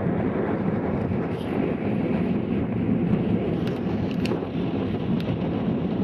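Strong wind buffeting the microphone: a steady, dense rumble with a few faint ticks partway through.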